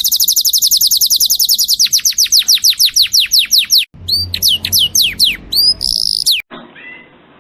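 Canary singing: a fast, even trill of high notes, then a run of descending whistled slides and short chirps. It cuts off suddenly about six seconds in, leaving only faint chirps.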